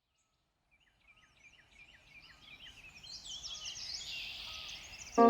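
Birdsong fading in: several birds chirping with short repeated down-slurred notes and higher trills, growing louder. Right at the end a loud organ-like keyboard chord comes in.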